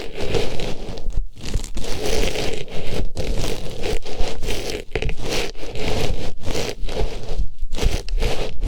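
Artificial flower pushed and rubbed inside an ear microphone for ASMR ear cleaning: close, loud rustling and crackling scratches with a few brief breaks.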